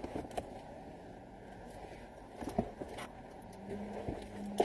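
A few faint clicks and knocks from things being handled at the truck, over a low steady background noise; the clearest knock comes about two and a half seconds in.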